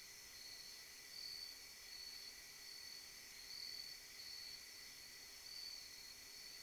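Faint steady chorus of night insects such as crickets: a high continuous trill that swells gently every second or two.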